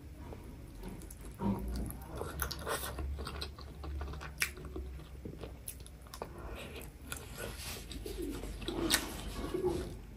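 Close-miked biting and chewing of a chicken momo: wet mouth sounds with scattered soft clicks and smacks, and a few short low tones near the end.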